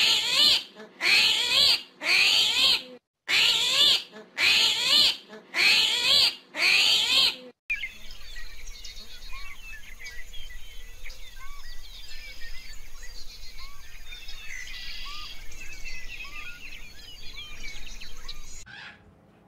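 About eight loud animal calls in a row, each under a second and rising then falling in pitch. After a cut, a quieter stretch of many small, faint calls over a low hum.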